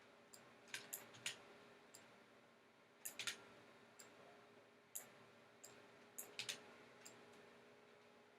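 Faint, irregular computer mouse and keyboard clicks, about a dozen short clicks, some in quick pairs and triples, over a low steady hum.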